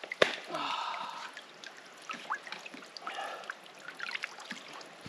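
Squelching and sloshing in deep mud and water, with scattered wet clicks and a sharp snap about a quarter second in, as boots and legs are worked in a mud bog.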